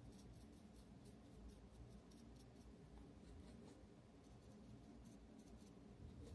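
Faint, quick scratchy strokes of a small brush working pastel chalk powder onto the toy's glued yarn-dust fur, several strokes a second over a low room hum.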